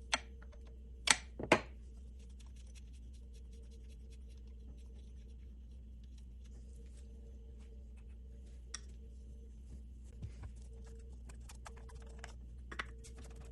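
Hand tools working on engine-bay hardware: a few sharp metallic clicks in the first second and a half, then faint scattered ticks and light scraping over a low steady hum.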